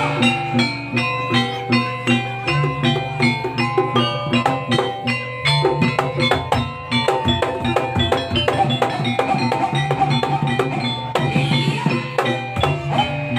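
Live jaranan music: a percussion ensemble of drums and tuned gongs and metallophones playing a busy, even beat.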